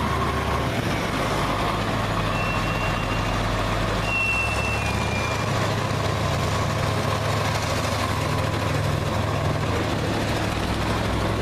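Heavy truck engines running steadily at a low idle. Two or three short high-pitched tones sound a couple of seconds in.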